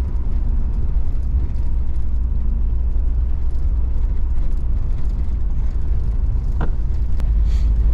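A vehicle travelling at a steady pace: a continuous low engine and road rumble, with a faint click near the end.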